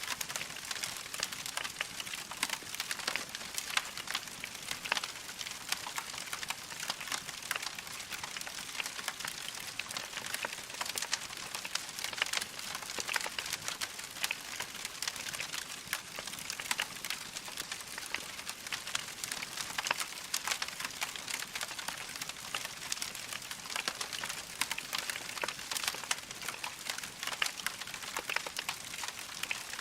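Wood fire with burning logs crackling steadily: a dense run of small quick pops and snaps over a soft hiss.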